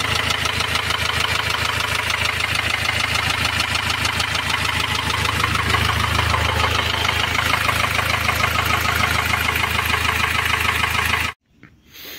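Ford Transit diesel van engine running at a steady idle with a fast, even knocking clatter: the engine noise for which the van was bought and taken apart. The sound cuts off abruptly near the end.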